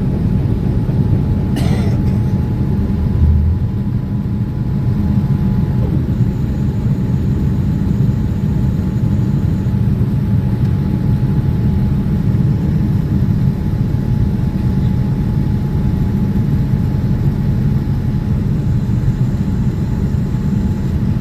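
Boeing 787-9 cabin noise from economy: a steady, loud low rumble of the jet engines and airflow, with a thin steady whine from the engines above it. A brief faint swish comes about two seconds in.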